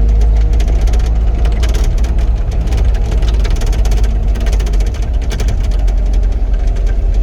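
Cat 259D compact track loader's diesel engine running steadily, with rapid clattering throughout as the machine works.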